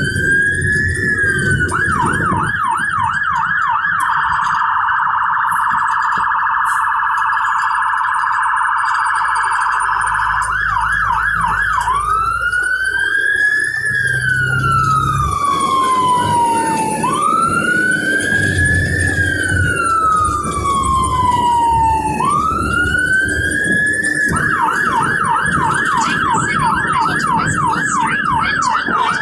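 Fire engine's electronic siren running code 3, switching between a fast yelp, a very rapid warble, and a slow rising and falling wail, then back to yelp near the end, with the truck's engine rumbling underneath.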